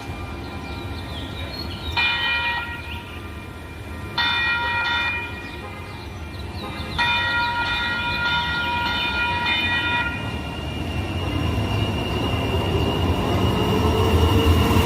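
Sacramento Regional Transit light rail train sounding its horn three times: two short blasts of about a second each, then a longer one of about three seconds. Toward the end the train's rumble grows louder, with a rising motor whine.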